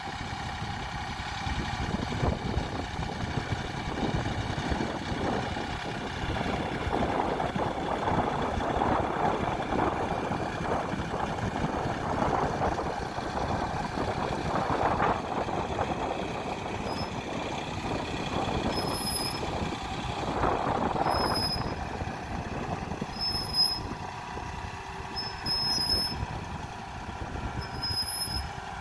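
John Deere 3032E compact tractor's diesel engine running steadily under load as it pulls a potato hiller through garden soil, swelling a little in places.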